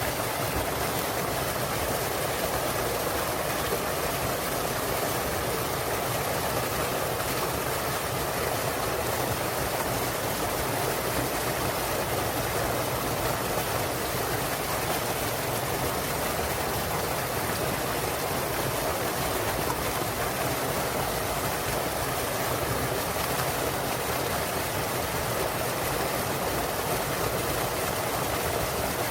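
A small waterfall splashing into a mountain stream, a steady, unbroken rush of water.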